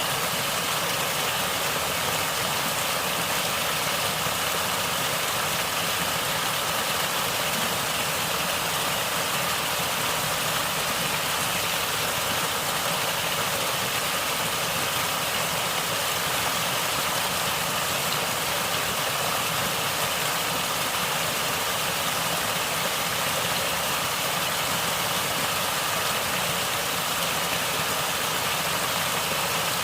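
Natural water flowing and gurgling in a steady, unbroken rush.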